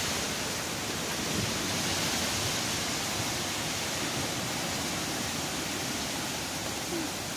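Heavy rain in a storm: a steady, even rushing hiss.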